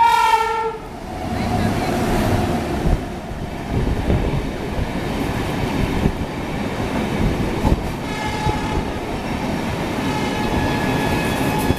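Horn of the 22221 Rajdhani Express ending in the first second, its pitch dropping as it goes by, then the train rushing past at speed: a steady rumble of coaches with the wheels knocking over rail joints.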